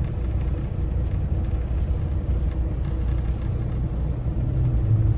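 Semi truck's diesel engine running at low speed with a steady low rumble, a little louder near the end, as the truck moves slowly into a parking spot.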